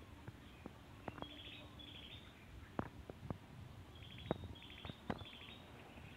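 Faint bird calls: short runs of rapid chirps that come in clusters, over quiet rural background noise with a few light clicks.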